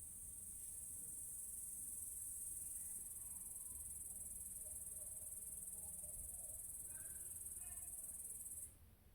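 Steady high-pitched insect buzzing that swells in the first seconds and cuts off abruptly near the end, with a few faint bird chirps.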